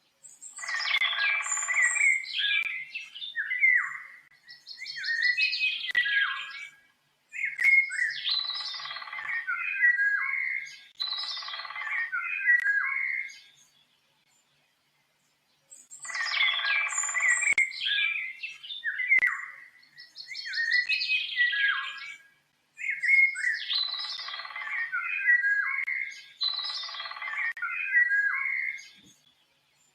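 A songbird singing bursts of varied warbled phrases, each a few seconds long, mixing chirps, quick trills and short whistled notes. After a brief dead-silent gap about halfway through, the same sequence of phrases repeats almost note for note, as a looped recording does.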